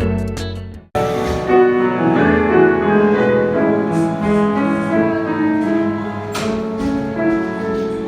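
Background music: one track fades out in the first second and a new piano-led track starts right after.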